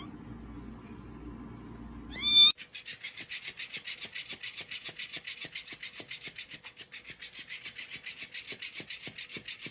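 A cat meows once, about two seconds in. It is followed by a steady rhythm of short rasping strokes, about four or five a second.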